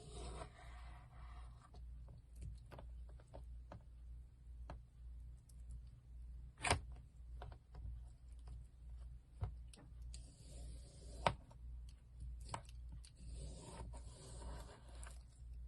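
Slime being worked by hand: soft squishing and stretching with many small pops and clicks, two sharper pops about halfway through and about two-thirds in, over a low steady hum.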